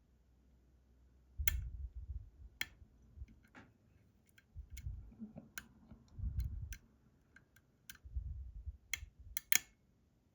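Metal pick and tension tool clicking against the pins inside a Robur 2391 lock cylinder, a dozen or so sharp, irregular clicks, the loudest pair a little before the end, with dull low handling bumps in between.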